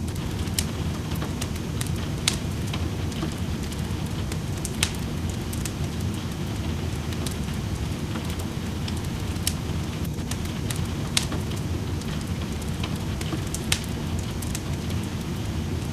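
Wood fire crackling in a fireplace, with sharp irregular pops, over a steady low rush of rain.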